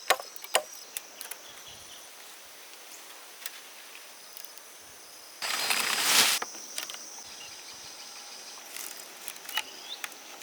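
Outdoor rural ambience with insects buzzing steadily in high, thin tones and a few scattered clicks. About halfway through comes a loud, noisy rush lasting about a second.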